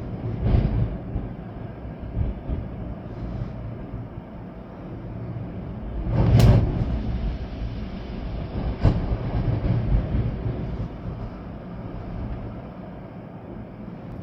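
Storm wind gusting in rumbling surges over steady rain, with one strong gust about six and a half seconds in.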